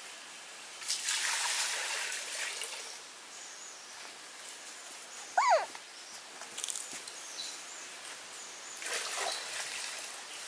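A puppy gives one short, high yelp about halfway through, between two stretches of noise, one near the start and one near the end.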